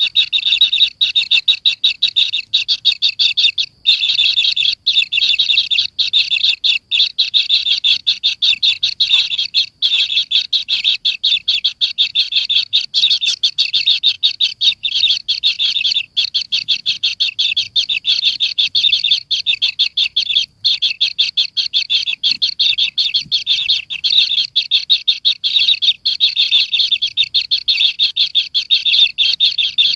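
A bird chirping in a rapid, even string of short high notes, several a second, almost without a break.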